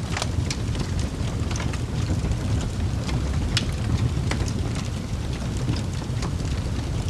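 Wood fire burning in a fireplace: irregular sharp crackles and pops over a low, steady rumble from the flames. A louder pop comes about halfway through.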